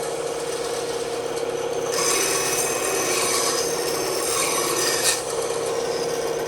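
Bandsaw running with a steady hum, its blade cutting into wood. The cutting noise gets louder about two seconds in and eases off just after five seconds.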